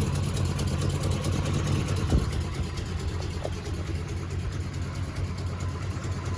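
Oldsmobile 350 two-barrel V8 idling steadily, a low even exhaust rumble.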